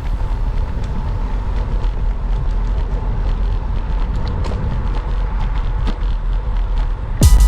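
Wind rumbling on the microphone and road noise while riding a road bicycle, a steady low noise with faint scattered ticks. Drum-heavy music cuts in abruptly near the end.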